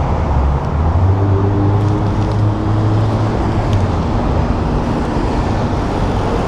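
Road traffic alongside a moving bicycle, heard over heavy wind rumble on the microphone. A passing vehicle's engine hums steadily from about a second in until around four seconds.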